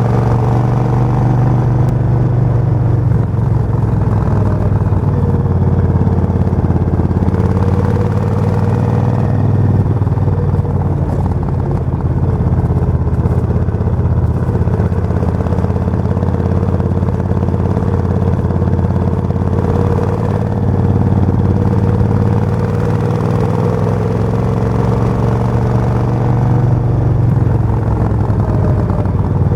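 Suzuki VS1400 Intruder's 1360 cc V-twin engine running steadily, its pitch shifting slightly now and then.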